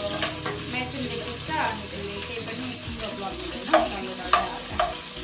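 Food sizzling in a frying pan while a metal ladle stirs and scrapes through it, with three sharp clinks of the ladle against the pan in the second half.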